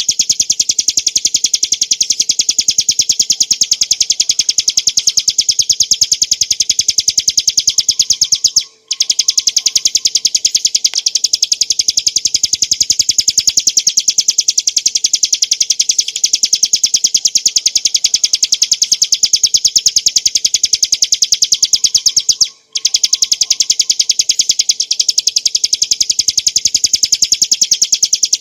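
Ciblek gunung (a prinia) singing a continuous, rapid trill of high, sharp notes, many to the second. The song breaks off twice for a moment, about nine and twenty-three seconds in.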